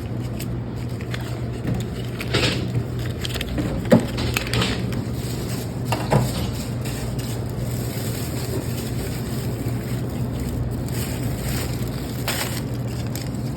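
Sandwich-shop counter ambience: a steady low hum with a handful of short knocks and rustles from handling at the counter.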